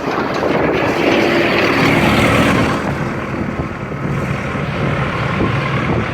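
Strong snowstorm wind buffeting the microphone in a continuous loud rush that swells briefly about two seconds in, with a faint low steady hum underneath.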